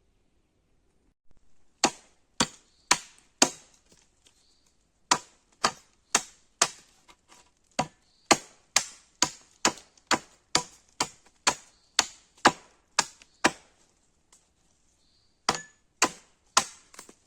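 An axe chopping wood in steady strokes, about two a second, with two short pauses.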